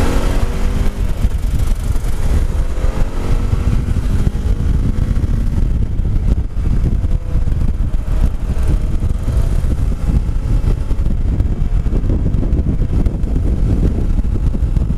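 Motorcycle engine under way, rising in pitch over the first couple of seconds as it accelerates, then holding a steady cruise. Heavy wind buffeting on the microphone.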